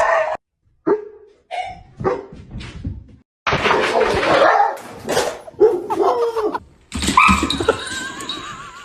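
A dog barking and making other vocal sounds in a string of short separate bursts, with brief breaks between them.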